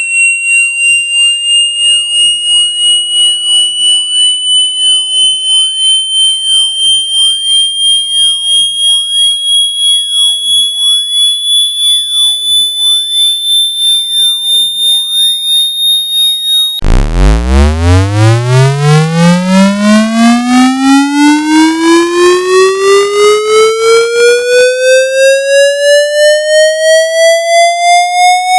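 Electronic water-eject tone. A high tone with overtones pulses about three times a second while its pitch creeps slowly upward. About two-thirds of the way through it switches abruptly to a buzzy sweep that starts very low and rises steadily in pitch, still pulsing. The tone is meant to vibrate moisture out of a phone's charging port.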